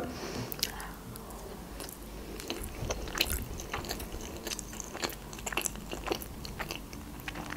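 A person chewing a mouthful of sushi rolls: irregular small wet smacks and clicks of the mouth.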